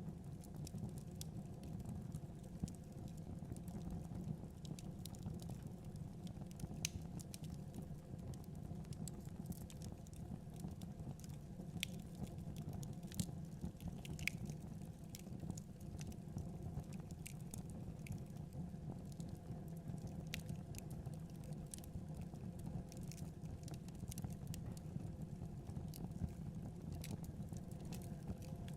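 Fireplace fire burning: a steady low rumble of the flames, with sharp crackles and pops scattered irregularly throughout.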